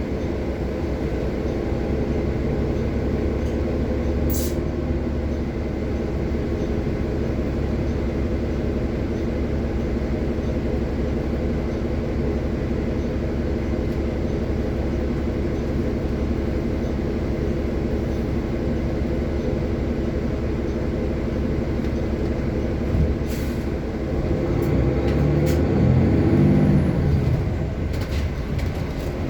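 City bus engine running steadily, heard from inside the bus, with a short hiss of air about four seconds in. Near the end the engine grows louder and its pitch shifts as it works harder.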